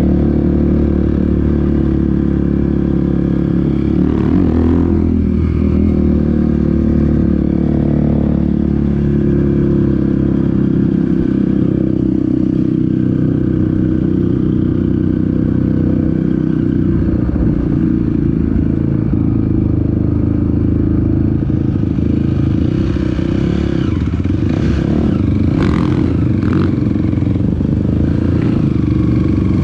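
Engine of an off-road trail vehicle running steadily under way, with a few rattles and knocks from the ride about four seconds in and again near the end.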